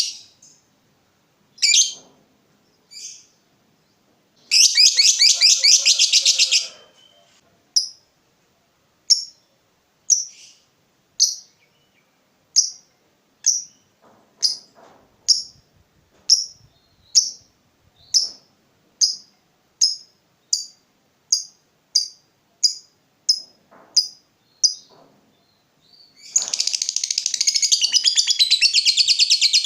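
Lovebird calling with sharp, shrill chirps. About four seconds in it gives a two-second rapid chattering trill, the "ngekek" call. Then come single chirps that come faster and faster, breaking into continuous rapid chatter near the end.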